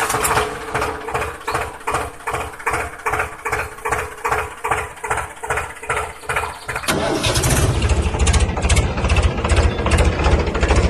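Tractor engine cranking over in slow, even pulses, about three a second. It catches about seven seconds in and runs on with a louder, faster, deeper chugging.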